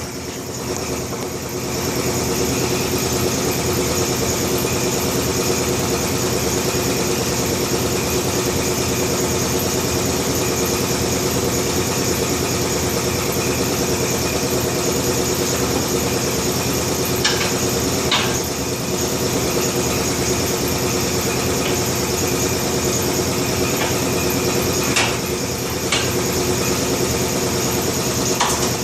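Steady drone of a motor running, with a few sharp clicks and knocks: two about two-thirds of the way through, two more a little later and one near the end.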